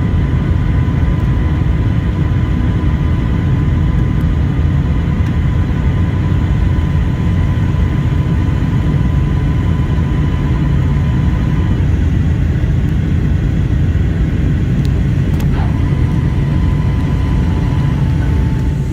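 Boeing 757-200 cabin noise during the climb after takeoff: a loud, steady rumble of engines and airflow, with a faint thin whine above it that drops out about two-thirds through and returns slightly lower near the end.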